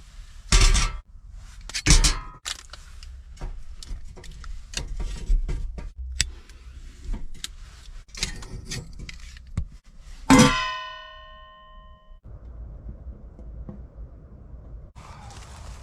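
Clattering and knocking as metal things are handled. About ten seconds in, one metal object is struck and rings out clearly for a second or so before fading.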